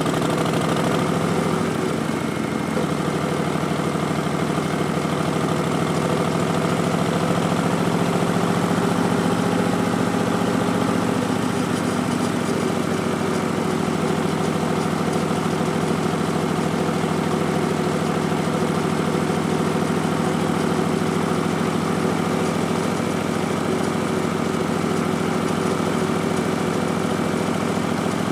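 2019 Harley-Davidson Street Bob's Milwaukee-Eight 107 V-twin, stage 1 with Vance & Hines Twin Slash slip-on mufflers and an Arlen Ness Big Sucker air cleaner, running steadily. Engine speed shifts slightly about two seconds in and again about eleven seconds in.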